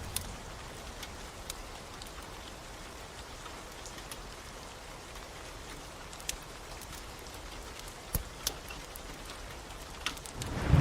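Steady rain falling, with a handful of sharp pops and ticks scattered through it. Right at the end, a much louder rush of rain noise swells in.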